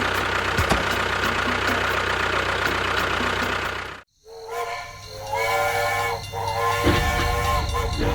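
A steady hissing machine noise with regular faint ticks and a low hum, which cuts off suddenly about four seconds in. After a brief silence comes a held whistle-like chord of several tones, with a low rumble joining near the end.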